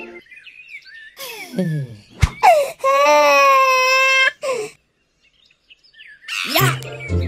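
Cartoon baby crying: a few short falling sobs and a knock, then one long, loud, wavering wail lasting about a second and a half. Children's cartoon music comes back in near the end.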